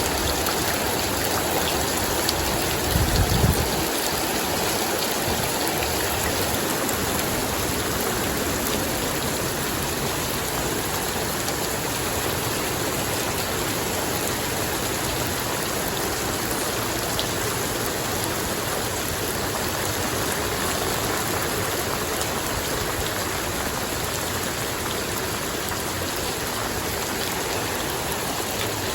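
Steady rain falling, an even dense hiss of drops with running water. A brief low thump comes about three seconds in.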